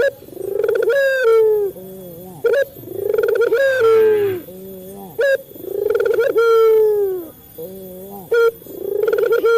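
Male ringneck dove (burung puter) cooing over and over. Each phrase is a long swelling coo that falls in pitch, followed by a few short clipped notes, and the phrase comes round about every three seconds.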